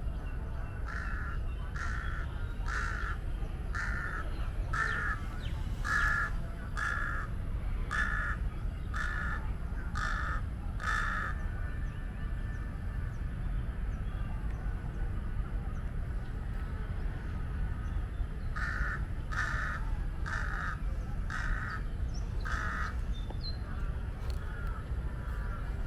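A bird calling in short, evenly spaced calls, about one a second: eleven in a row, then after a pause of several seconds five more. A steady low background rumble runs underneath.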